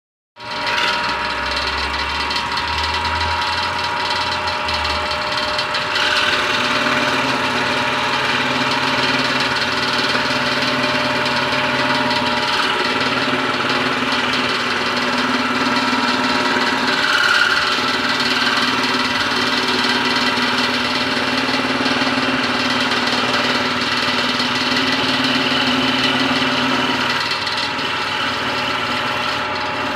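Homemade scroll saw built from a sewing machine, running steadily on its electric motor, with a change in tone about six seconds in.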